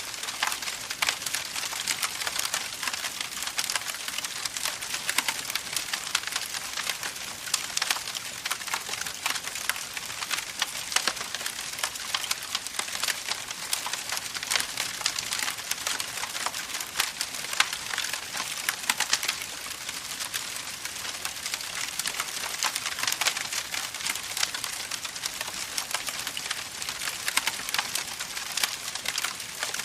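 Campfire crackling: burning wood giving a dense, continuous run of small pops and snaps over a steady hiss.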